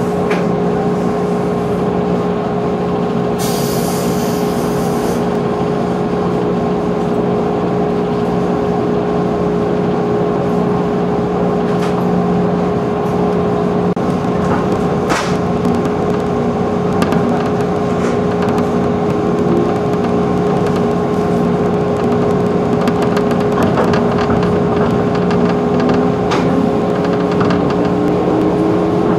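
JR 211 series electric train heard from inside the carriage, standing at a station with a steady hum of its onboard equipment, and a short hiss of air a few seconds in. Past the middle it pulls away, and a faint whine rises slowly in pitch as it gathers speed.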